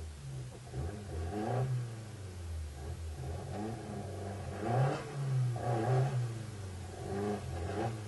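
Rally car engine revving in several short bursts, its pitch rising and falling each time, over a steady lower running note.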